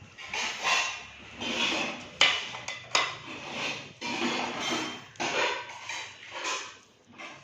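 Metal kitchenware clattering and scraping as pots, plates and spoons are handled, with sharp clinks about two and three seconds in.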